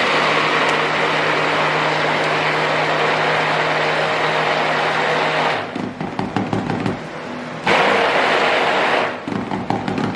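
Stick blender running in liquid soap batter, in two bursts: one of about six seconds, then, after a gap filled with light knocks, one of about a second and a half.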